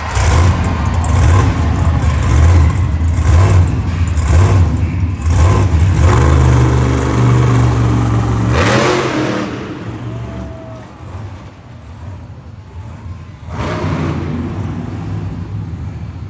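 Monster truck engine revving hard under heavy throttle for about nine seconds, its pitch climbing near the end. It then drops back to a lower idle, with another burst of throttle a few seconds later.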